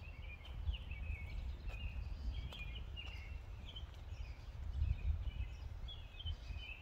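Small birds chirping and singing over and over, with a low rumble on the microphone underneath.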